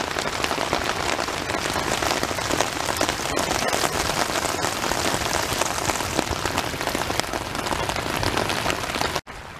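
Monsoon rain falling steadily on a muddy runoff stream and wet gravel, a dense patter of drops. It cuts off abruptly near the end.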